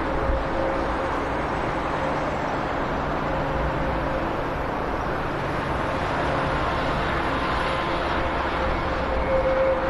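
Airbus A400M's four turboprop engines running steadily at low power, a constant rumble with a held hum.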